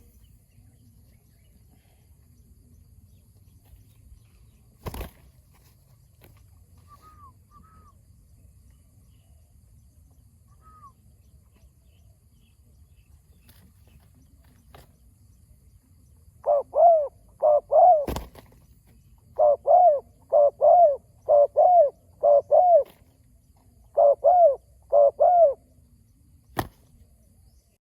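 Spotted dove cooing in three runs of short, arched coos that start a little past the halfway point. Three sharp clicks are heard, one before the cooing, one in the middle of it and one after it.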